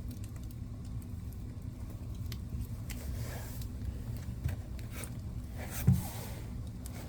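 Wood fire burning in a fireplace: a steady low rumble of flames with scattered crackles and pops. A brief hiss flares up twice, and the loudest pop comes near six seconds in.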